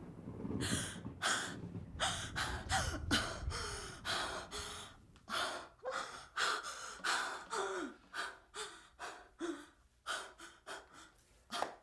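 A woman gasping and breathing hard in a quick run of short breaths and breathy moans, about two a second, tapering off toward the end: the sound of a sudden rush of pleasure.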